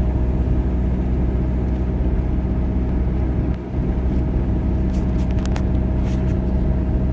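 Car driving, heard from inside the cabin: a steady low engine and road rumble, with a few light clicks about five to six seconds in.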